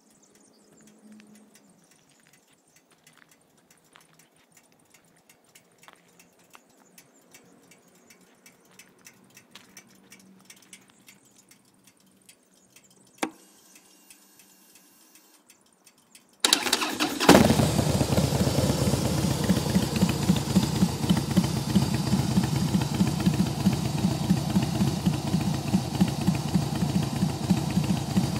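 2008 Harley-Davidson Softail Deluxe's Twin Cam V-twin, with Khrome Werks 3-inch HP Plus slip-on mufflers and a Stage 1 tune, being started. After a long quiet stretch broken by a single click, the starter turns briefly and the engine catches with a loud burst a little past halfway. It then settles into a steady loping idle at about 800 rpm.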